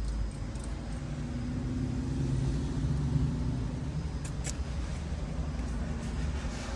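BMW F450 GS parallel-twin engine idling with a steady low rumble; the hum swells a little about two seconds in and eases off again past the middle.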